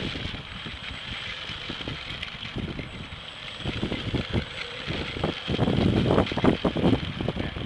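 Wind buffeting the microphone in irregular gusts, heaviest in the last couple of seconds, over a steady high whine from a radio-controlled Cessna 182 Skytrainer model plane's electric motor and propeller.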